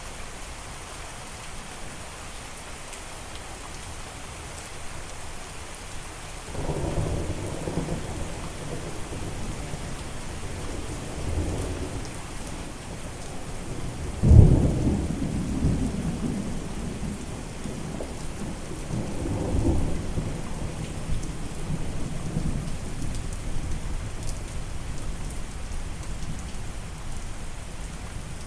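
Steady rain with thunder rolling through it: a low rumble builds about six seconds in, a sharp, loud thunderclap comes about halfway through, and the rumbling swells again a few seconds later.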